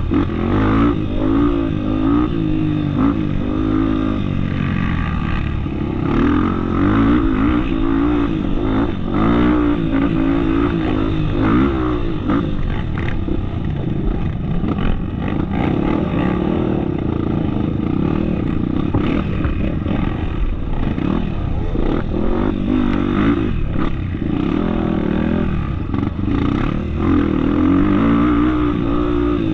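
Off-road motorcycle engine running under load, its pitch rising and falling again and again as the throttle opens and closes over rough ground.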